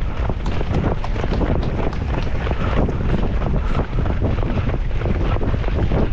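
Strong wind buffeting the microphone, a loud steady rumble with constant gusty thumps.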